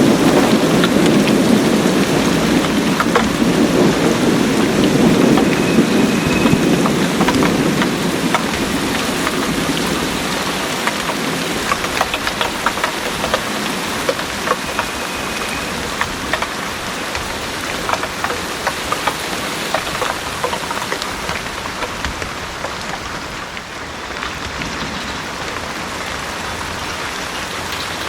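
Heavy rain falling steadily, with sharp drops ticking close by. A low rumble of thunder dies away over the first several seconds.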